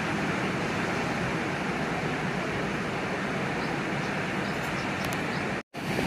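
Steady rush of sea waves and surf, broken by a split-second dropout to silence near the end.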